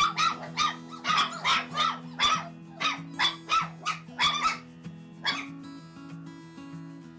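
Four-week-old poodle puppies yipping and barking in a quick run, about two or three yips a second, thinning out after about four and a half seconds. Background music with held low notes plays under them.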